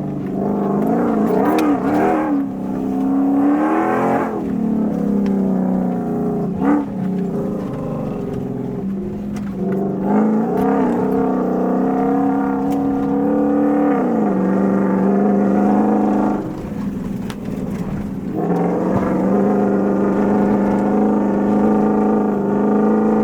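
Toyota Tundra pickup engine under way off-road, its pitch rising and falling with throttle over the first half, then holding a steady drone near the end, with a brief dip in between.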